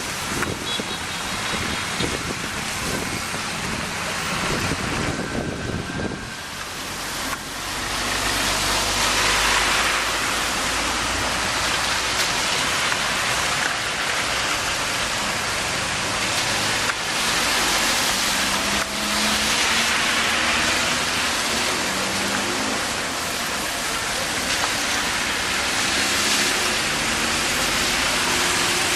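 Heavy rain making a steady rushing hiss, with a motor vehicle's engine running underneath. The hiss grows louder about seven seconds in.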